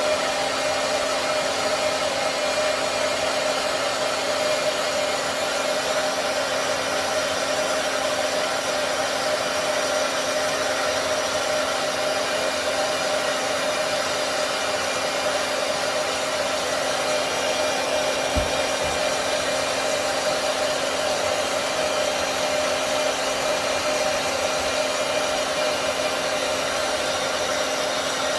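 Handheld hair dryer running steadily, blowing a wet cockatoo's feathers dry: an even blowing noise with a held low hum. A brief low bump about two-thirds of the way through.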